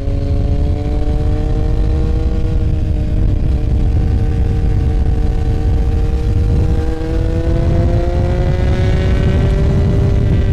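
Motorcycle engine running on the move, its steady note climbing gradually over the last few seconds as it speeds up, under heavy wind rumble on the microphone.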